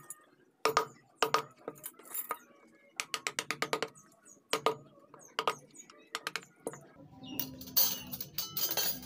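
Carving chisel being driven into wood with a wooden mallet: quick runs of light taps, several a second, broken by short pauses. Near the end a louder, denser noise comes in.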